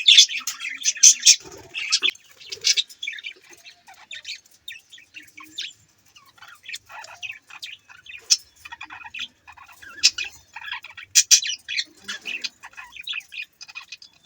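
Budgerigars chirping and chattering: a flock of rapid, overlapping high chirps and warbles, busiest in the first couple of seconds and again near the end.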